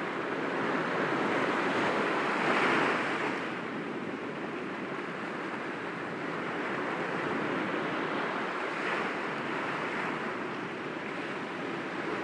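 Sea waves breaking gently against rocks: a continuous wash of surf that swells to a louder break about two to three seconds in, then settles to a steadier rush.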